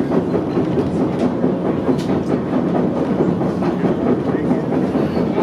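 White Pass and Yukon Railroad passenger train running, with a steady rumble and clatter from its cars and wheels on the track.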